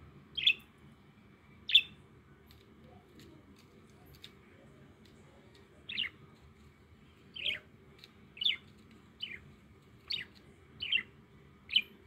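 A caged pet bird chirping: nine short, sharp calls, each dropping in pitch. Two come near the start, then after a pause of about four seconds seven more follow at about one a second.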